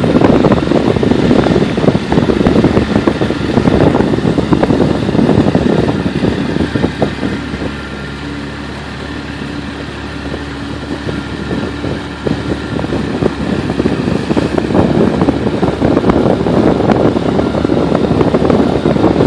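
Motorboat engine running steadily under way, with heavy wind buffeting the microphone. Partway through the wind eases for several seconds and the engine's steady hum comes through more clearly, before the wind noise picks up again.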